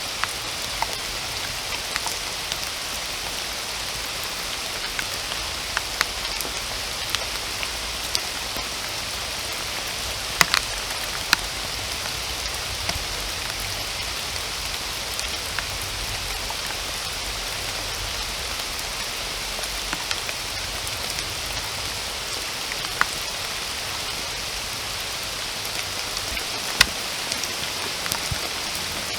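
Steady rain falling in a forest, an even hiss with single heavy drops clicking close by now and then.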